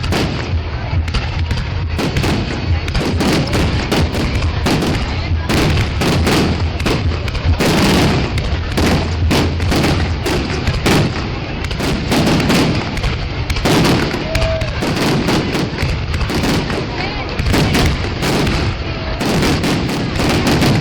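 Fireworks display: a dense, irregular run of aerial shell bursts and bangs, many in quick succession, over a constant low hum.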